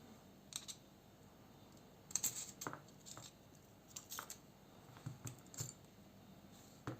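Small hard clicks and taps as a folding knife's metal parts and a small screwdriver are handled while the knife is taken apart, scattered irregularly with a short cluster about two seconds in.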